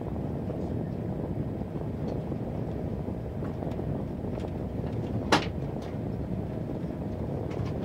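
KTX high-speed train running, a steady low noise heard from inside the passenger cabin, with one sharp click about five seconds in.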